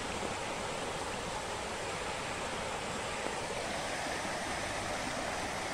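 Rain falling steadily during a downpour that has flooded the river, an even hiss of water with no single drops or splashes standing out.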